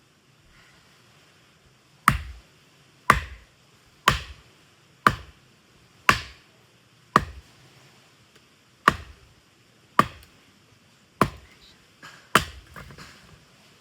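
Firewood being split by hand: about ten sharp chopping strikes, roughly one a second, each a crack with a dull thud beneath, with a short pause partway through.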